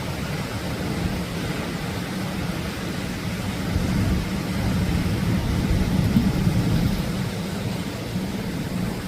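Atlantic surf breaking on the shore: a steady low rushing rumble that swells louder in the middle as a wave comes in.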